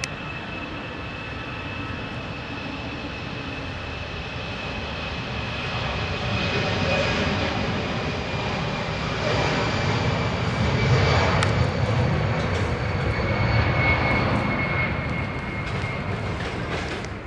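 Airbus A320-214's CFM56 turbofan engines at takeoff thrust, a steady high whine over a deep rumble. It grows louder to a peak about eleven seconds in, then eases off as the jet moves away.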